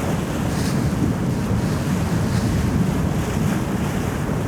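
Steady wind buffeting the microphone aboard a tour boat, over the rush of water along the boat.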